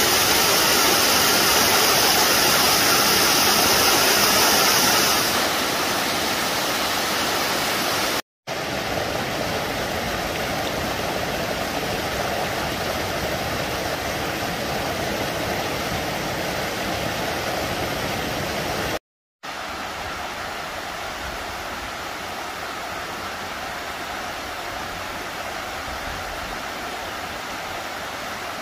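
Waterfall water rushing in a steady roar. It is heard in three stretches split by brief dropouts about 8 and 19 seconds in, and is louder and brighter in the first few seconds.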